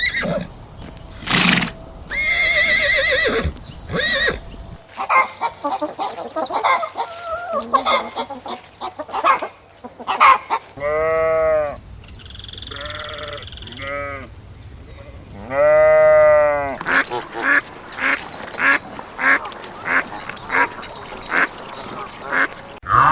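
A run of farm animal calls from several clips cut together, among them waterfowl quacking and honking.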